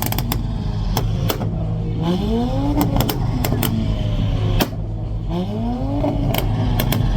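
A car engine revved over and over, its pitch climbing and then tailing off about every three seconds, with sharp cracks scattered between the revs.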